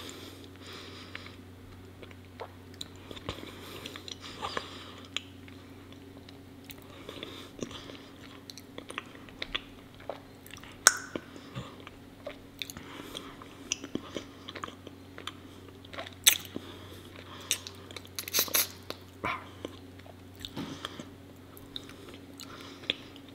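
Close-up chewing of raw honeycomb: wet, sticky mouth sounds with irregular sharp clicks and smacks, a handful of them much louder than the rest.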